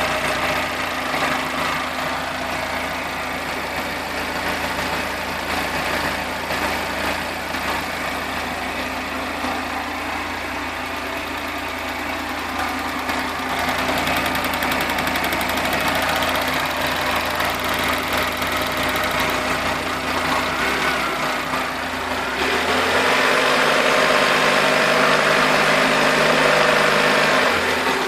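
Car engine idling with the rapid ticking of the evaporative-canister purge solenoid valve. The ticking and engine sound grow louder about 22 seconds in.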